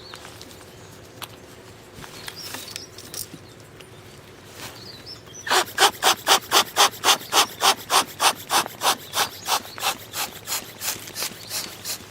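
A hand saw cutting through wood in quick, even rasping strokes, about three and a half a second, starting about halfway in and slowly growing weaker.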